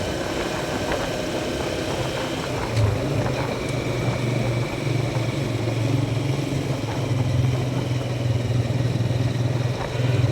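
Motorcycle engine running at a steady pace while riding, over rushing road and wind noise; the engine note grows stronger about three seconds in.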